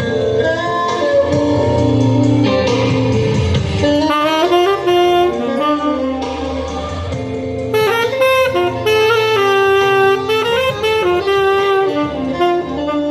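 Tenor saxophone playing an improvised solo over a live band's accompaniment, breaking into quick runs of notes about four seconds in.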